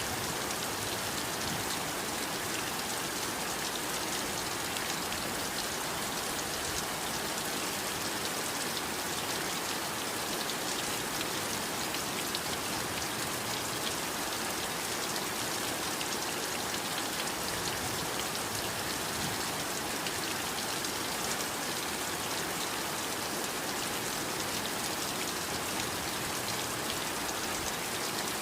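Steady heavy rain falling, a dense even hiss of countless drops pattering on a surface.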